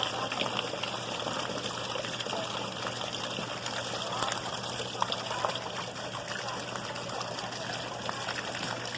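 Heavy rain with rainwater pouring over the edge of an overflowing roof gutter: a steady splashing rush of water with faint pattering drops.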